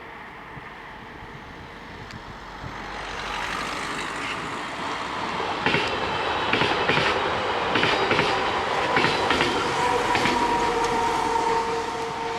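SNCF Z 5300 electric multiple unit passing, growing louder from about two and a half seconds in, its wheels clattering with a series of sharp clicks over the rail joints. A steady whine runs through the second half.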